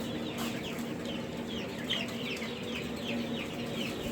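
Newly hatched turkey poults and a duckling peeping: a rapid, overlapping string of short, high, falling chirps, several a second, over a steady low hum.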